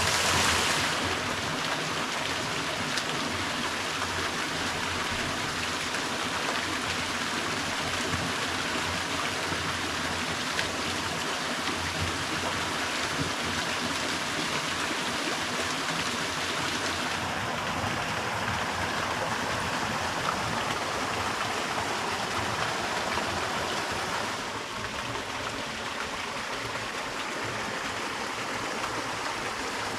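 A small creek waterfall splashing and rushing steadily, a little quieter about three quarters of the way through.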